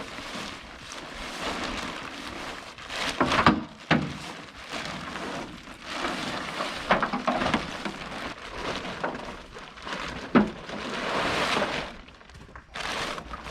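Nylon tent fabric rustling and crinkling as a pickup-truck bed tent is pulled from its carry case and spread out, with a few sharp knocks and thumps from handling.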